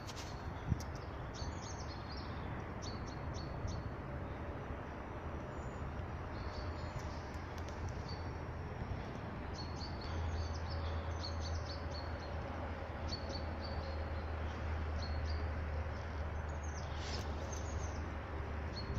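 Small birds chirping on and off over a steady low background rumble that grows stronger about halfway through.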